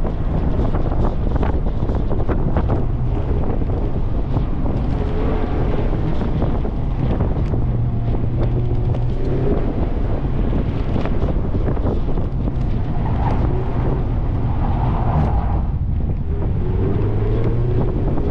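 Stock Mazda MX-5 Miata's four-cylinder engine running hard through an autocross course with the top down, its note rising and falling with throttle. Heavy wind buffets the microphone throughout.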